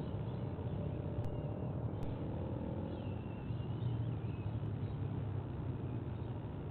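Steady low outdoor rumble, with faint high bird chirps about three seconds in.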